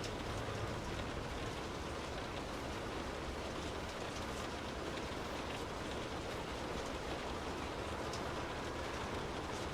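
Steady rain falling on and around a car, an even hiss with scattered drops ticking, over a low steady rumble.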